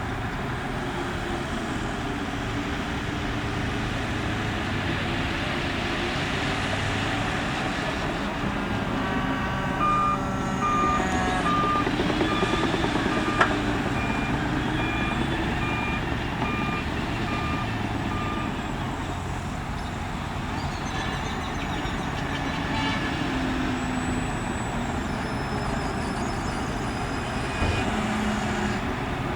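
Heavy construction machine engine running steadily. From about ten seconds in, a reversing alarm beeps about once a second for some eight seconds.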